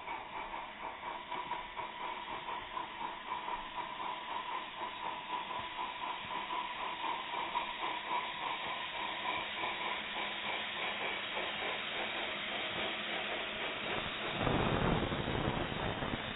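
Small live-steam garden railway locomotive running, its steam hissing with a rapid chuff. Near the end a louder rush of noise lasts about a second.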